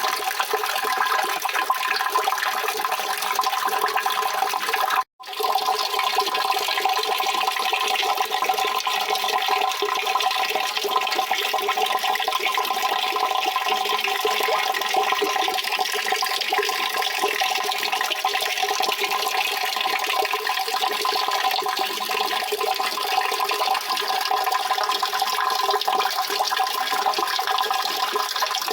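Steady rushing water, an even continuous flow, with a brief complete break about five seconds in before it resumes unchanged.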